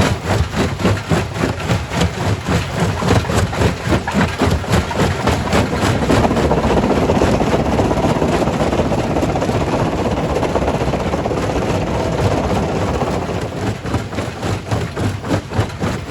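Primary rock crusher running with a fast, regular knocking, and a denser, louder grinding rumble swelling through the middle of the stretch before the knocking stands out again near the end.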